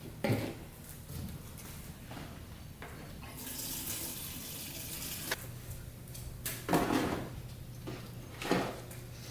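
Liquid being poured into a fuel container to mix gasoline with two-stroke oil, with a run of pouring noise in the middle and several knocks and clunks from handling the cans.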